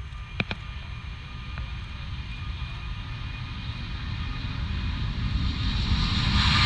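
Airbus A380's four Rolls-Royce Trent 900 jet engines, a rumble with a high whine, growing steadily louder as the airliner approaches.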